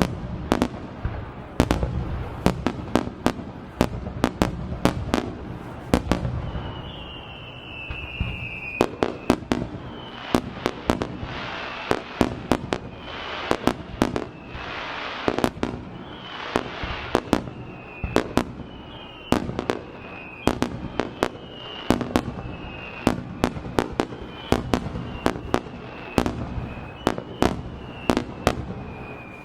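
Aerial firework shells bursting in rapid succession during a fireworks display: a dense run of sharp bangs, with stretches of crackling from the burst stars, and short falling whistling tones repeating in the second half.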